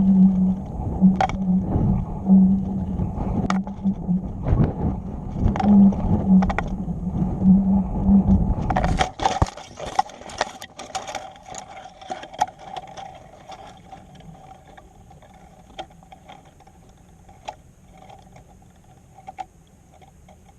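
Wind rushing over a model rocket's onboard camera as it drifts down under its parachute, with a low hum that comes and goes and the airframe knocking. About nine seconds in, the wind noise cuts off suddenly after a clatter, as the rocket lands, leaving faint ticks.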